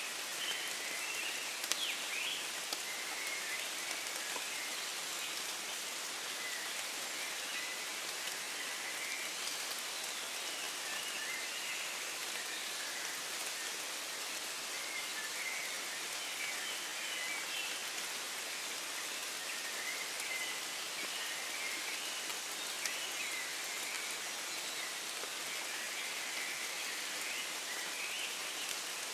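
Steady rain falling in woodland, with a few sharp ticks from close drops. Birds chirp faintly throughout in a dawn chorus.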